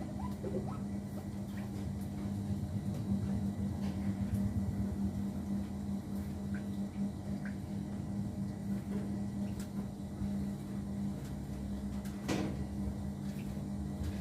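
Faint, scattered short chirps of small aviary birds over a steady low hum, with a single sharp knock near the end.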